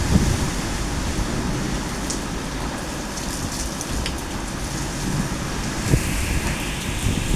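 Hurricane wind and heavy rain: a steady rushing noise, with gusts buffeting the phone's microphone.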